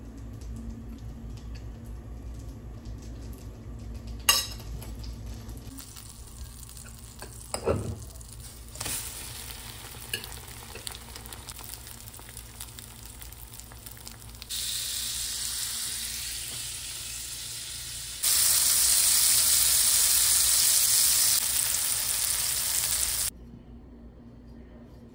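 French toast frying in a nonstick pan: a steady sizzle that jumps louder twice and stops suddenly near the end. A sharp knock comes about four seconds in, and a duller thump follows a few seconds later.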